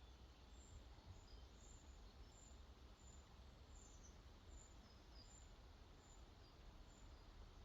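Faint, steady rush of water where a lake flows out into a river, with a small bird's thin, high chirps repeating about once every second or less in the background.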